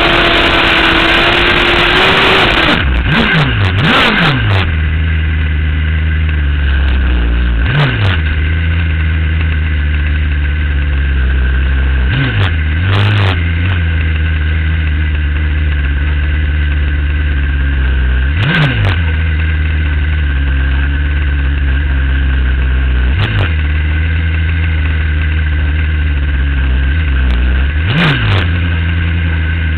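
A drag-racing superbike engine held at steady high revs for about two and a half seconds, then dropping to idle. It sits idling with a short, sharp throttle blip every four to six seconds.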